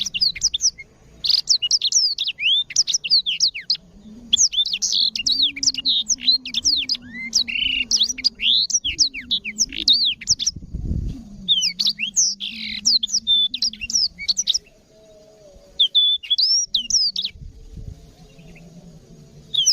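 Black-throated canary (blackthroat) singing a fast, continuous song of sharp high chirps and trills in long runs with short pauses.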